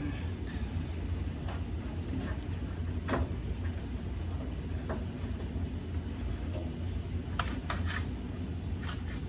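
A steady low hum with scattered light clicks and knocks of hands handling parts and wiring clips under a pickup truck's bed, a sharper knock about three seconds in and a few quick clicks near the end.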